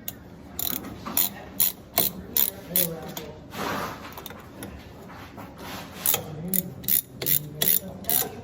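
Hand ratchet being worked in quick strokes, its pawl giving sharp clicks about three a second, with a pause in the middle before the clicking resumes.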